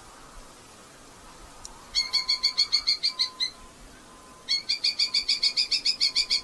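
Red-footed falcon giving two runs of rapid, evenly repeated sharp calls, a chattering series at about seven to eight notes a second, the second run longer than the first.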